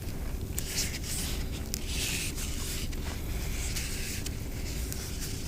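Bulky twine rubbing and scraping in short strokes as it is wound and pressed around a foam egg, with a couple of light clicks about one and two seconds in.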